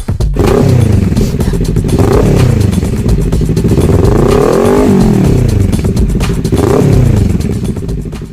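Sport motorcycle engine being revved several times, its pitch rising and falling in repeated sweeps, with one longer rev about halfway through.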